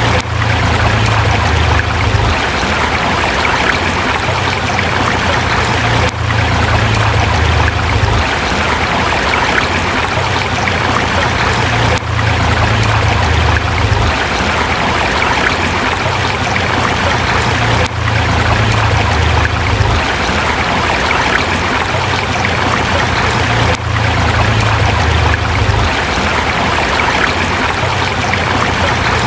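Forest river rushing and splashing over rocks in a steady, full stream, with a brief dip in level about every six seconds.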